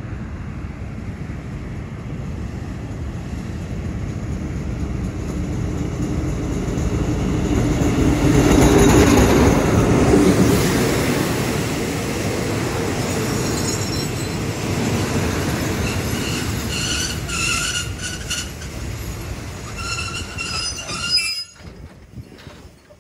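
Diesel-hauled passenger train pulling into a station: the locomotive's engine grows louder and passes about 8 to 11 seconds in. The coaches then roll by with repeated high-pitched squeals as the train slows. The sound drops off suddenly near the end.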